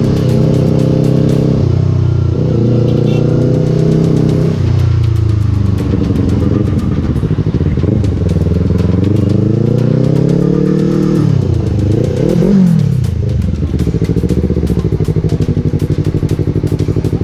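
Yamaha R3 motorcycle engine, a parallel twin, running through its freshly fixed exhaust silencer. It idles steadily, is revved up and down in slow swells through the middle with a couple of quick blips, then settles back to an even idle.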